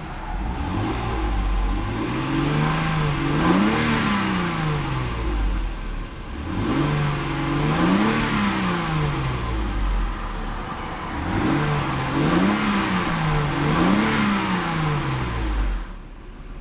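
A 2002 Lexus IS300's 3-litre inline six with variable valve timing is blipped three times. Each rev climbs and falls back to idle, and the first and last surges each peak twice.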